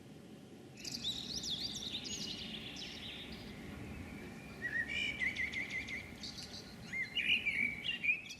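A songbird singing from about a second in, a varied run of whistles, quick glides and trills, over a steady hiss of heavy rain.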